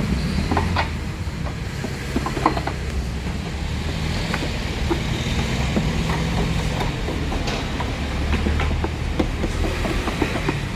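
A machine running with a steady low hum, with scattered light clicks and knocks throughout.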